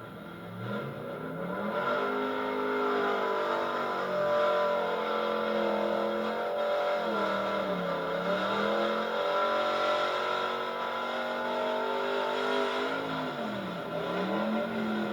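Altered gas pulling truck's engine at high revs under load: pitch climbs over the first two seconds, holds high with a wavering tone, and dips briefly about eight seconds in and again near the end before climbing back.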